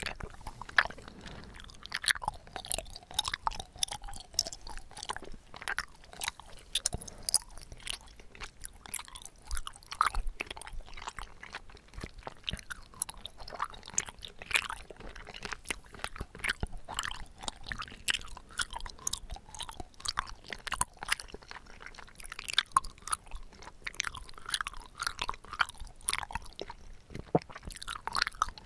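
Close-miked chewing of bubble tea tapioca pearls, a steady stream of wet, clicking mouth sounds.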